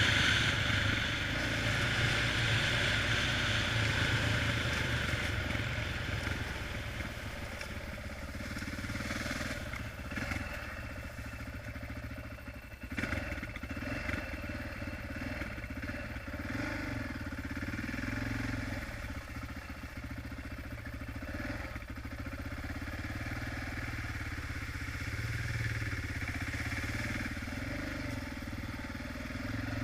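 Honda XR650R's single-cylinder four-stroke engine running under way, loudest in the first couple of seconds and then easing off, with the revs rising and falling a little along the ride.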